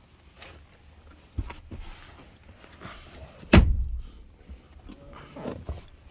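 Knocks and shuffling as someone climbs past the tipped second-row seat into an SUV's third row, with one loud, heavy thump about three and a half seconds in.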